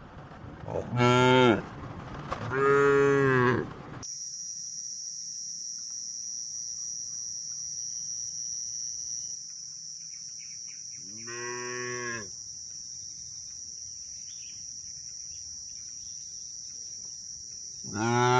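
Cattle mooing: two moos in quick succession, a third after a long gap, and a fourth starting near the end. After an abrupt cut a few seconds in, a steady high-pitched drone sits under the later moos.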